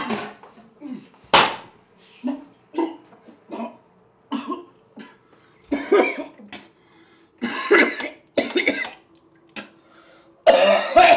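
A man coughing and retching over a toilet: about a dozen separate coughs and gags with short breaths between, the last ones the loudest.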